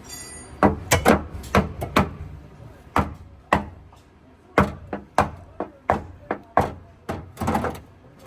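Hammer blows on the dented rear sheet-metal body of a Suzuki Wagon R, beating out collision damage: a string of sharp, irregular knocks, about two a second.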